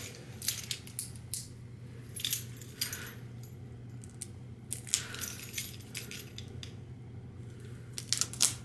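Light clicks, taps and rustles of a boxed product and its packaging being handled on a tabletop, with a faint steady low hum underneath. A quick run of louder clicks comes near the end.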